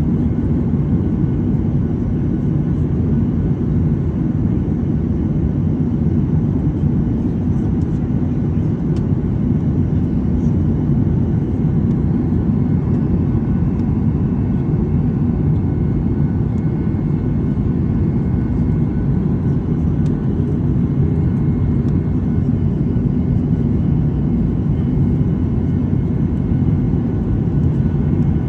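Steady low roar inside an airliner's passenger cabin in flight: the jet engines and the rush of air over the fuselage, unchanging throughout, with a few faint steady whines above it.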